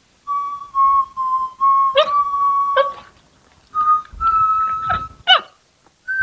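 Dog whining in long, high, steady notes, broken by a few short yelps that slide sharply up and down; the notes pitch up a little after a short pause.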